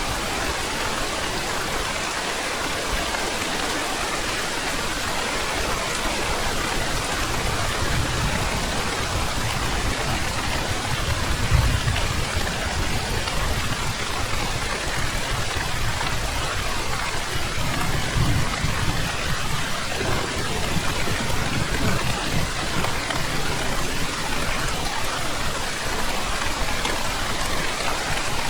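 Heavy rain falling steadily, an even dense hiss, with deeper low swells about a third of the way in and again just past the middle.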